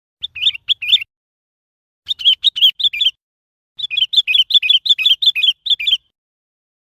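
Sooty-headed bulbul calling in three runs of quick, short chirping notes. The last run is the longest, about two seconds, and the calls stop about a second before the end.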